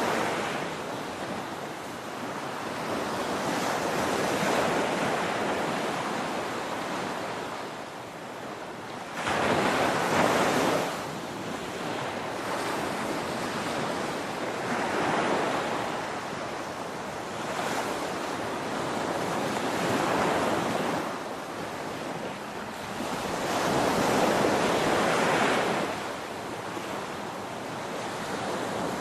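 Ocean waves breaking on a shore: a steady wash of surf swelling and easing every few seconds, with the loudest break about nine seconds in and another near the end.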